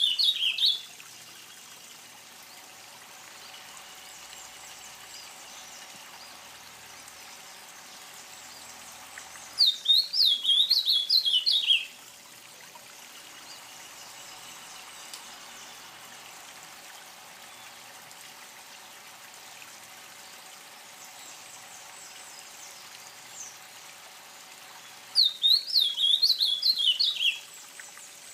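A songbird singing a short, loud phrase of rapid, sharp up-and-down notes: the tail of one phrase right at the start, then two more, spaced about 15 seconds apart. Between the phrases, a steady faint trickle of water.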